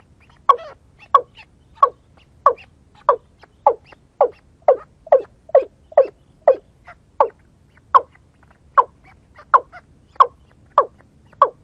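White-breasted waterhen calls, a steady series of short notes about one and a half a second, each dropping in pitch.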